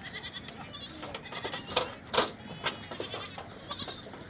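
Goats and sheep bleating several times, with a few sharp clicks around the middle.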